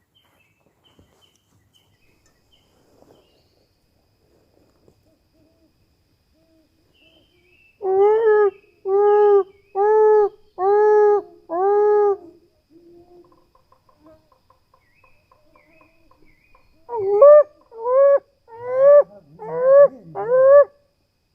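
Loud animal calls: a run of five evenly spaced calls of nearly one pitch, then after a pause a faster run of calls that each rise in pitch.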